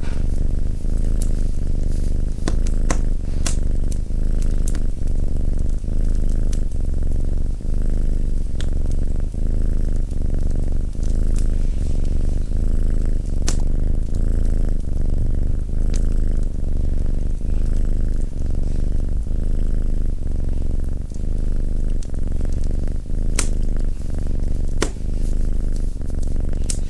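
Domestic cat purring steadily in a slow in-and-out rhythm, with sharp crackles from a wood fire in the fireplace now and then.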